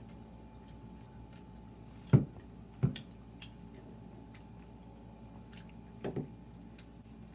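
Close-up chewing and wet mouth sounds of people eating chicken wings, with faint scattered smacks and clicks. Two short loud knocks come about two and three seconds in, and a brief low sound near six seconds.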